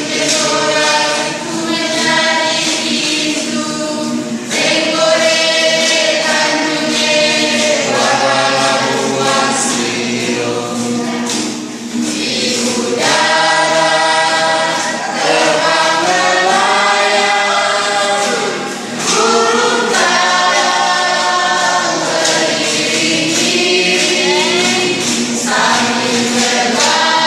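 A group of voices singing together in harmony, in long phrases with short breaks between them.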